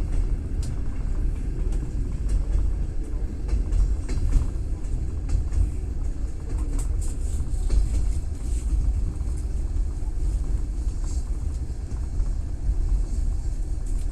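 Train wheels running on the rails, heard from inside a passenger carriage: a steady deep rumble with scattered light clicks and knocks.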